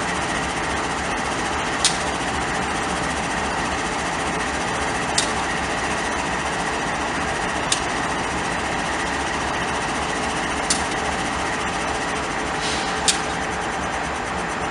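Train rolling past at steady speed: a continuous running noise with a faint steady whine, and a sharp click every two to three seconds, five in all.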